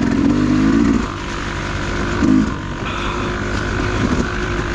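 Dirt bike engine running under the rider, revving up in short bursts about three times.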